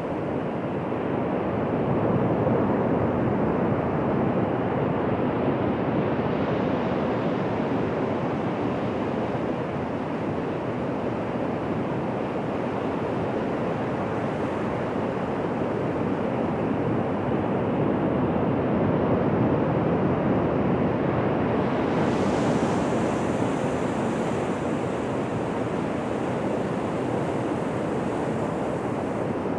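Ocean surf washing onto a beach: a steady rush of breaking waves that swells and eases slowly, with a fainter high hiss joining about two-thirds of the way through.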